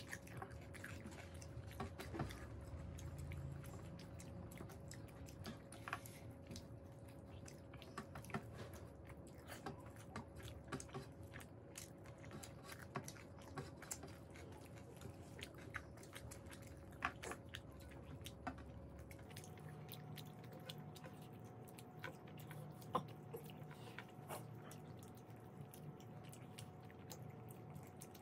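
Close, faint chewing and wet mouth sounds of people eating rice and curry with their hands, with many small scattered smacks and clicks. A faint steady hum runs underneath.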